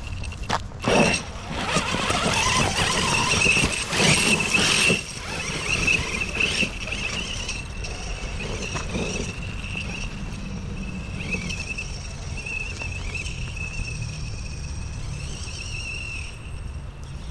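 Home-made 12S RC monster truck running on a Hobbywing Max4 system with a big brushless motor, giving off a steady high whine. Louder bursts of rushing noise come in the first five seconds as it is driven hard, then it settles to a steadier run.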